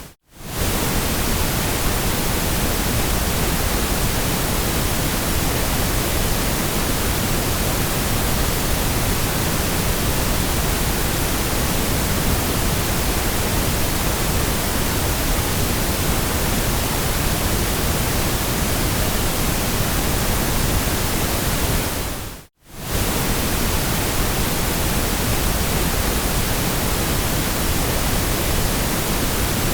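Steady white noise, an even hiss spread evenly from deep to very high pitches. It cuts out for a split second right at the start and again about 22 seconds in, then comes straight back.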